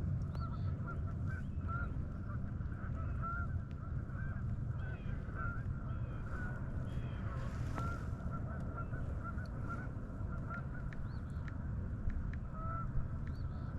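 A flock of geese honking, many short calls overlapping and repeating, over a steady low rumble.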